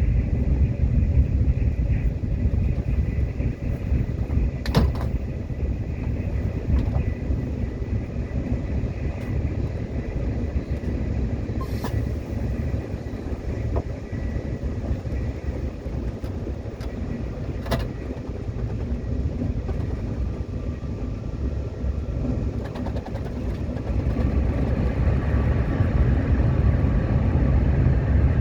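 Subway train running on the track: a steady low rumble of wheels and motors, with a few sharp clicks and a swell in loudness near the end.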